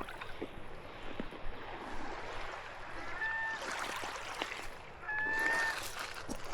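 Steady shoreline water noise with a few small crunching clicks. From about halfway, a short whistled note at one steady pitch repeats every second or two.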